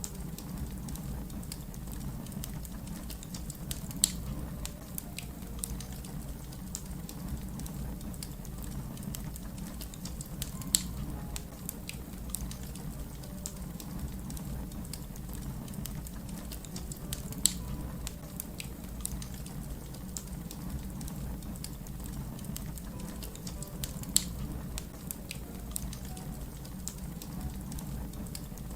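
Wood fire crackling, with a steady low rumble of the flames under a scatter of small snaps and four louder, sharp pops spaced about seven seconds apart.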